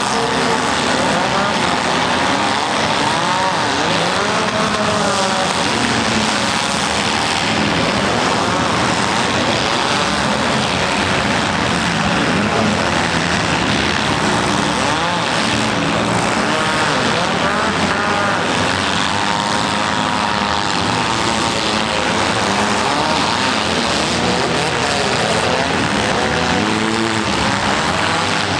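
Several demolition-derby compact cars' engines revving up and falling back at once, their overlapping pitches rising and dropping over a dense mechanical din.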